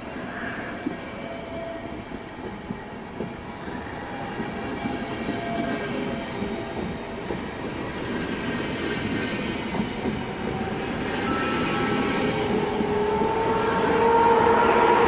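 Trenitalia Vivalto double-deck coaches rolling past on the rails, with a few sharp wheel clicks early on. An electric whine from the E464 electric locomotive pushing at the rear rises a little in pitch and grows loudest near the end as the locomotive draws near.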